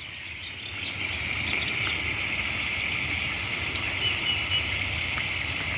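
A steady, unbroken drone of insects, with one high band and one lower, over a low rumble. A short faint high call sounds about four seconds in.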